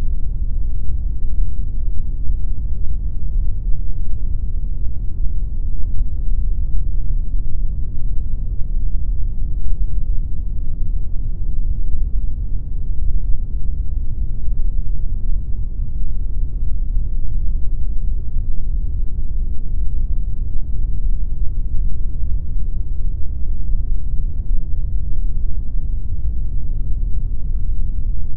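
Steady pink noise: an even, unchanging rush with most of its weight in the low end.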